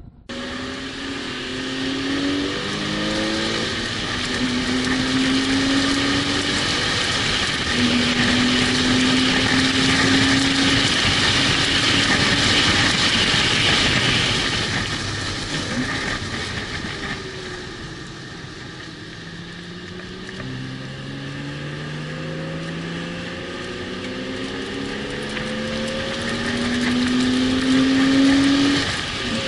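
A car's engine at full throttle on a race track, its note climbing and dropping back again and again as it shifts up through the gears, over steady wind and tyre noise. About two-thirds of the way in it eases off, then pulls hard again.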